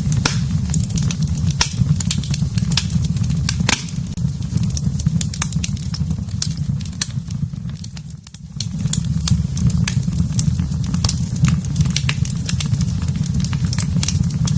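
Wood fire crackling in a fireplace: frequent sharp pops and snaps over a steady low rumble of the burning fire. The sound dips briefly about eight seconds in, then resumes.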